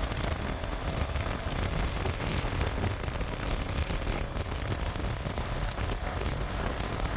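Wind rushing over the microphone of a motorcycle POV camera while riding: a steady, rushing noise with a heavy low rumble and fine crackle throughout.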